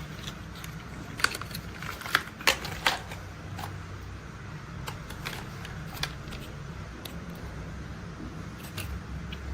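Hard plastic toy parts clicking and clattering while being handled: a quick run of sharp clicks in the first few seconds, then sparser, fainter ones, over a low steady hum.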